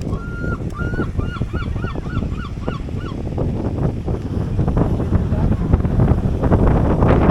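A bird calling a run of about nine short repeated notes, the first one drawn out, about three a second for the first three seconds, over wind buffeting the microphone.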